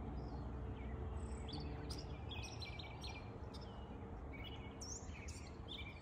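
Backyard songbirds chirping and calling in short, quick notes again and again, over a steady low background rumble.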